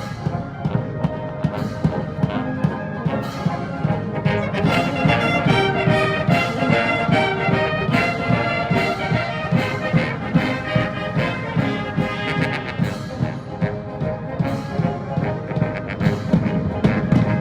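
Massed military band of brass, woodwind and drums playing a march, with a steady drum beat of about two strokes a second.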